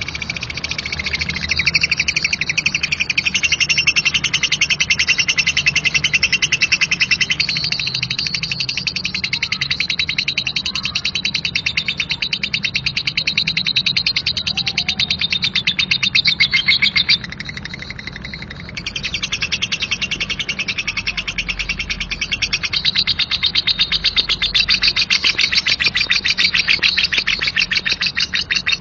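Female lovebird singing a rough, harsh 'ngekek': one long continuous chatter of very rapid notes. It drops away briefly a little past the middle, then carries on.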